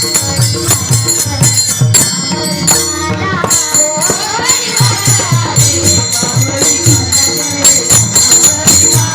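Live Marathi gaulan bhajan music: a voice singing gliding phrases over regular drum strokes and steady jingling percussion.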